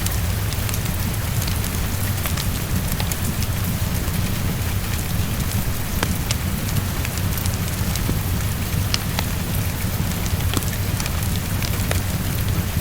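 Steady heavy rain tapping on a window over a constant low rumble, with scattered sharp ticks from raindrops and a crackling fireplace.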